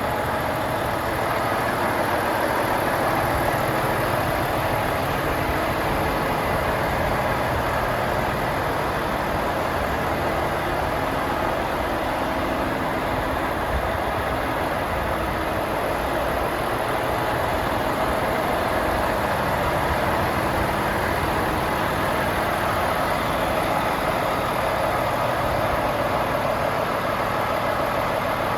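Volvo FH 500's 13-litre six-cylinder diesel engine idling steadily.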